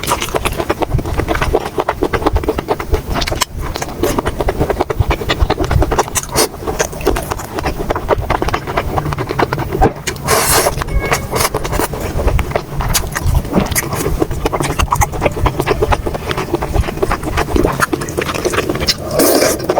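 Close-miked eating sounds: continuous wet chewing and mouth smacking, with a louder, hissier slurp or crunch about ten seconds in.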